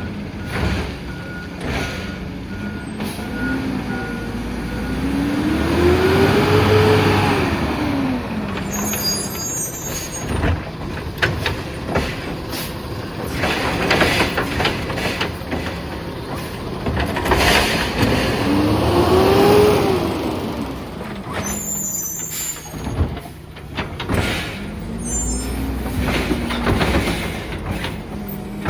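Peterbilt 520 garbage truck's diesel engine revved up and let fall back to idle, three times, the last rev smaller. Short bursts of air hiss come between the revs.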